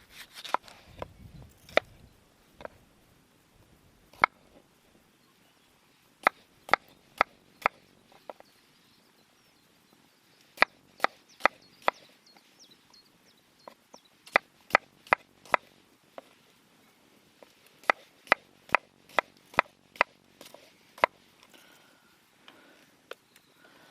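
A knife chopping on a cutting board: sharp knocks, about two a second, in several short runs with pauses between them as ingredients are cubed.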